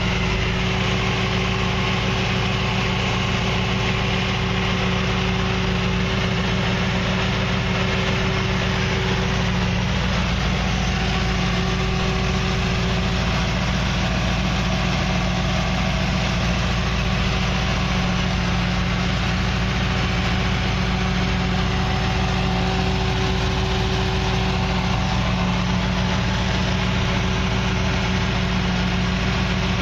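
Supercharged 5.7-litre LS6 V8 of a 2002 Corvette Z06 idling steadily.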